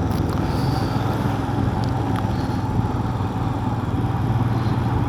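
Motorcycle engine running steadily at riding speed, with a constant rush of road and wind noise.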